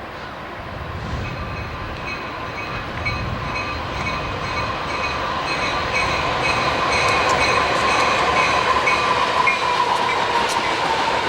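Train approaching and growing steadily louder, a rumble with steady high-pitched ringing from the wheels and rails over it.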